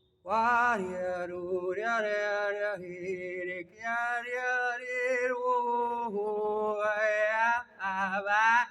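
A single voice singing a capella in a chant-like way, with long held notes that slide up and down in pitch and short breaths between phrases.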